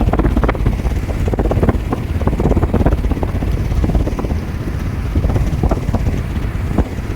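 Strong wind buffeting the microphone: a loud, steady low rumble broken by rapid, irregular gusty thumps.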